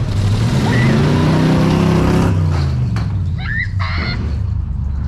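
Truck engine running, revved up and back down over the first two seconds, then idling steadily.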